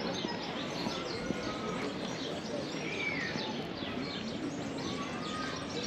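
Many small birds chirping in quick short notes over steady background noise.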